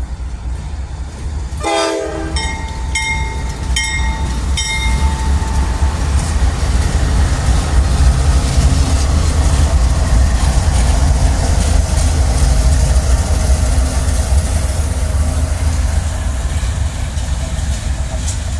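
Train passing close by with a loud, continuous rumble that builds to a peak in the middle. A short horn blast sounds about two seconds in, followed by a few ringing strikes of the locomotive bell.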